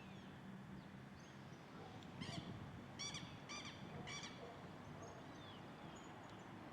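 A bird giving four short calls in quick succession, starting a little over two seconds in, with faint thin chirps from other birds.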